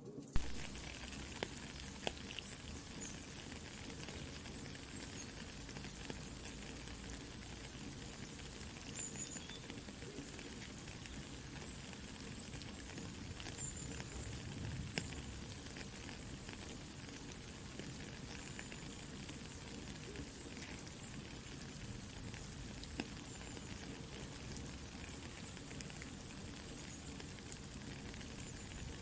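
Soft steady rain mixed with a campfire crackling, small scattered pops over an even hiss, with one sharper pop near the start.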